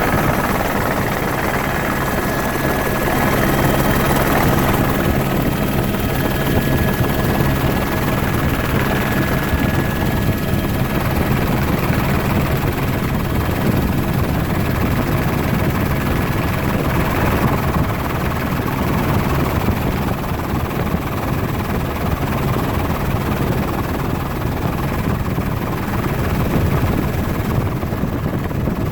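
Helicopter running steadily: a dense, even rotor and engine noise with a faint high whine coming and going over it.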